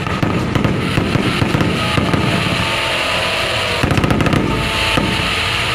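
Fireworks going off in a dense, continuous crackling barrage, with a quick rattle of pops about four seconds in.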